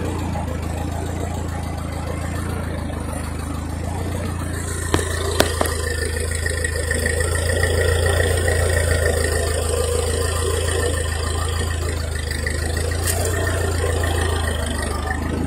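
Ford 8N tractor's four-cylinder flathead engine running steadily under load while driving and dragging a log, its low note rising slightly about a third of the way in. A couple of brief knocks are heard about five seconds in.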